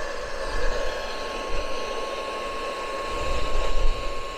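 A hair dryer running steadily with a constant whine, blowing hot air onto a frozen livestock waterer nipple to thaw it. Low rumbling buffets of wind on the microphone come and go underneath.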